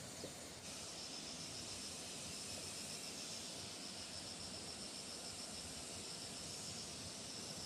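Insects chirping in a fast, steady pulsing trill over a faint outdoor hiss, beginning abruptly about half a second in.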